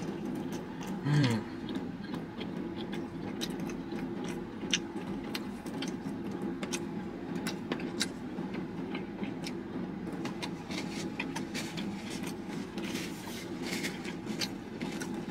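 A person eating chicken wings: scattered wet chewing clicks and small handling sounds of paper and a sauce cup over a steady low car-cabin hum. A short falling "mm" about a second in.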